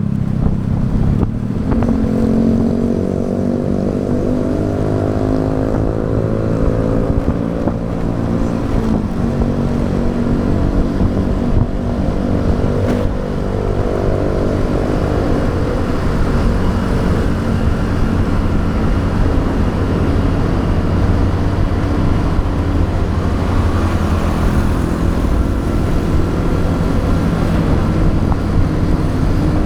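Motorcycle engine running under way, with a steady rush of wind and road noise. Its pitch climbs gently over the first several seconds as the bike accelerates, then changes and holds roughly steady.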